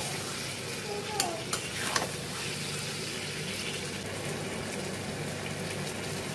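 Mutton and potato curry sizzling as it is fried down with spices (kosha) in a pan and stirred with a metal spatula, with a few knocks and scrapes of the spatula in the first two seconds.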